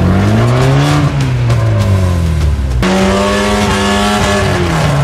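Off-road 4x4 engine revving hard under load, its pitch rising and falling repeatedly. The sound changes abruptly about three seconds in.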